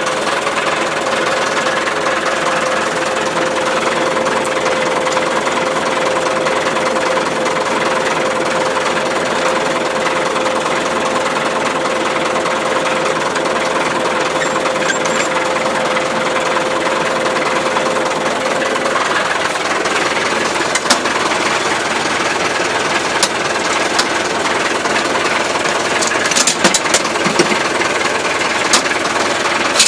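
Massey Ferguson tractor engine running steadily, with a steady whine that stops about two-thirds of the way through. Sharp rattling clicks come in near the end.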